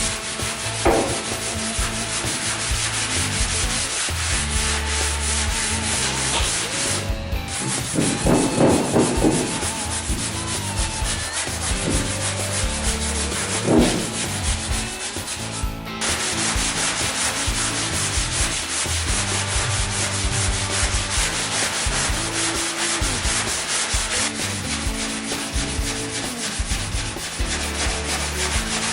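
Sanding on car bodywork: a steady rubbing that goes on with only brief breaks about seven and sixteen seconds in.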